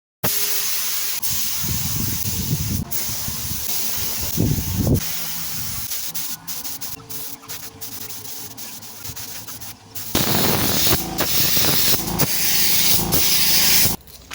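A steady hiss with a few low knocks, getting louder about ten seconds in and cutting off sharply just before the end.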